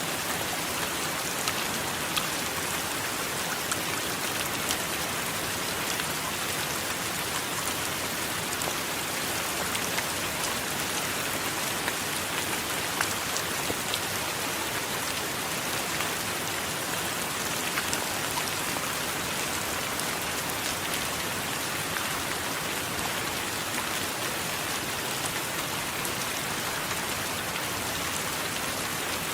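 Steady heavy rain, a dense even hiss scattered with many small sharp drop impacts.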